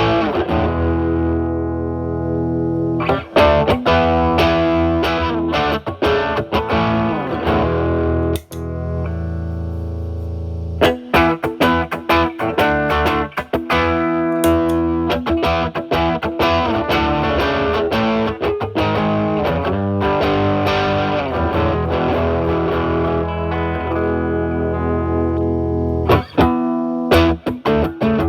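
Electric guitar playing overdriven chords and single notes: a Fender Stratocaster with single-coil alnico pickups through a Paul Cochrane Timmy overdrive pedal, its gain at about 10 to 11, into a Marshall Valvestate amp's drive channel. About nine seconds in, a chord is left ringing for a couple of seconds before the playing resumes.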